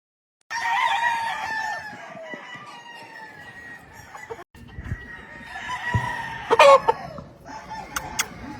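Roosters crowing: one long crow starting about half a second in, and another starting around five seconds. A few short, sharp clucks come near the end.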